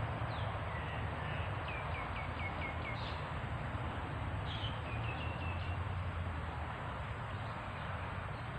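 A small bird chirping in two quick runs of short repeated notes, the first a couple of seconds in and the second around the middle, over a steady outdoor hiss and low rumble.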